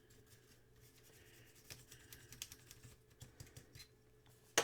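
A brush scrubbing dust off the Datasette's circuit board: light scratching with a run of small quick ticks, then one sharp click near the end.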